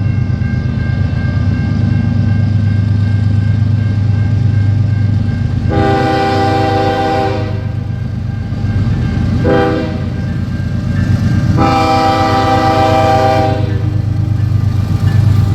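Diesel locomotive's multi-chime air horn sounding a long, a short and a long blast, the close of the standard grade-crossing signal, over the steady rumble of the locomotive's engine.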